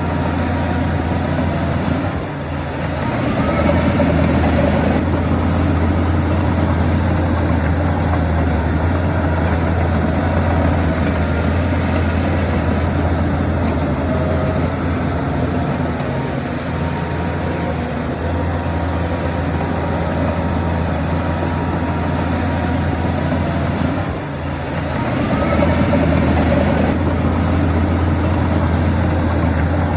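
Shantui bulldozer's heavy diesel engine running steadily under load. It drops briefly twice, about two seconds in and again near the end, and each time revs back up with a rising whine.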